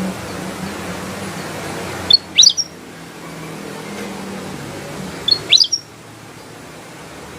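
Kutilang emas bulbul calling: two short bursts of quick, high, sliding notes, about three seconds apart, over a steady background hiss.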